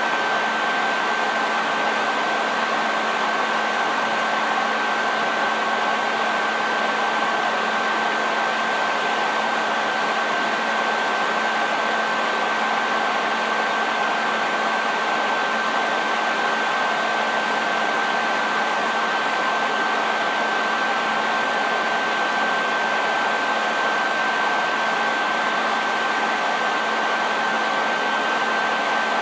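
Hair dryer running continuously: a steady rush of air with a constant high whine from the motor and a faint low hum underneath.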